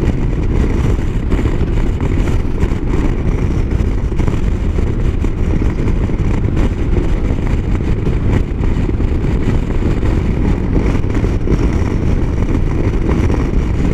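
Motorcycle riding at highway speed: a steady, heavy rush of wind on the rider's microphone with engine and road noise under it.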